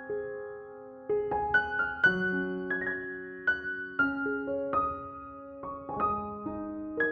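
Background music: gentle solo piano or keyboard playing a slow melody of struck notes, each left to ring and die away, with a short pause about a second in.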